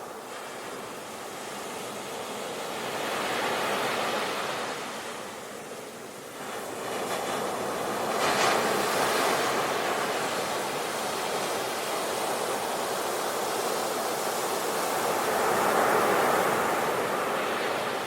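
Sea waves breaking on the shore, the surf swelling and ebbing in a slow rhythm, with three louder waves crashing: one about 4 s in, one about 8 s in and one near the end.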